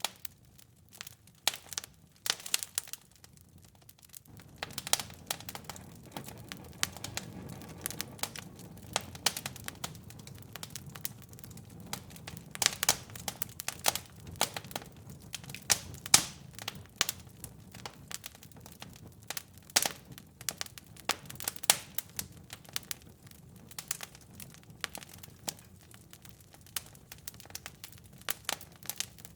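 Wood fire in a fireplace crackling and popping: irregular sharp snaps, some loud, over a low steady rush of burning that comes in about four seconds in.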